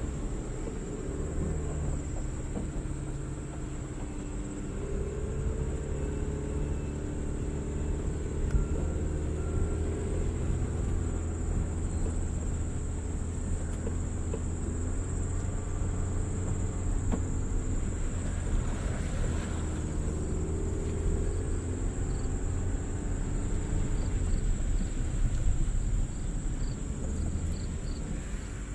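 Jeep Renegade's engine working as the SUV climbs an off-road slope, its pitch rising and falling with a low rumble underneath. A steady high-pitched whine runs throughout.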